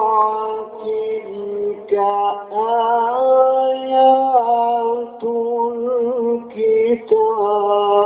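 A male Quran reciter chanting in a melodic Egyptian style, holding long notes with wavering ornaments, with short breaths between phrases about two, five and seven seconds in.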